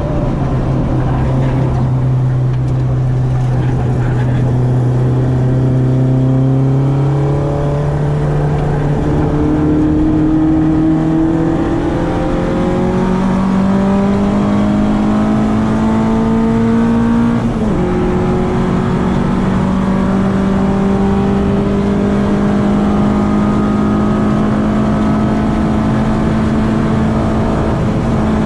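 Citroen AX 8-valve four-cylinder engine breathing through twin Weber 40 carburettors, running hard under load. Its pitch climbs slowly and steadily, and about 17 seconds in it drops suddenly with a gear change before climbing again.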